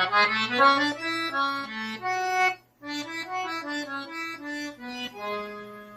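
Accordion playing a melody of short single notes stepping up and down, with a brief break just under three seconds in, then more notes ending on a held note that fades away.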